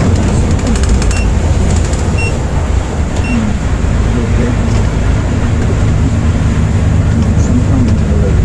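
Steady low engine and road rumble of a Volvo B8R coach heard from inside the moving bus. Three short high beeps come about a second apart in the first few seconds.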